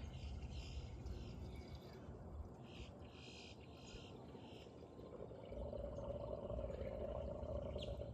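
Water being poured from a jug into a John Deere grader's radiator. The pour comes in as a steady sound about five seconds in, with faint bird chirps earlier.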